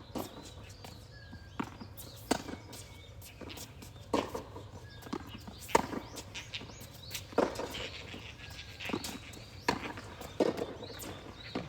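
Tennis rally: racket strikes and ball bounces, a sharp knock every second or two. A few short high squeaks come in between.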